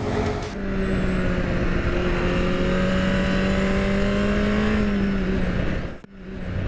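Sport motorcycle engine running at a steady cruising speed, heard from the rider's camera with wind rush over the microphone. The sound fades out about six seconds in.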